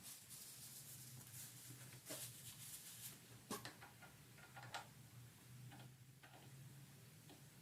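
Near silence: faint scattered clicks and taps over a low steady hum.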